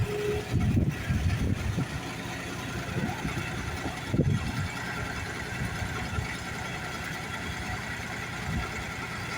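Dexter tractor engine running as it powers a McConnell Power Arm backhoe digging earth, with several low surges in the first couple of seconds and another about four seconds in.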